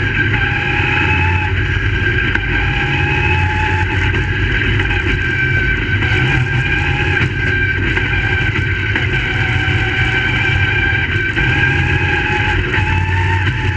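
Crate Late Model race cars' V8 engines running hard around a short oval, the engine pitch climbing and dropping again and again as they accelerate and lift.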